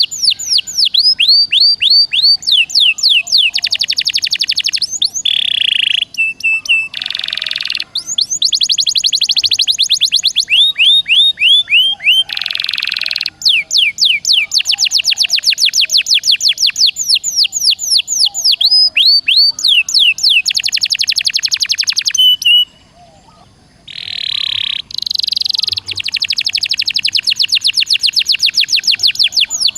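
Songbird song in fast runs of high, down-slurred whistled notes, several a second, broken a few times by short buzzy trills. It is a mixed recording of icterine warbler, sikatan londo and canary song.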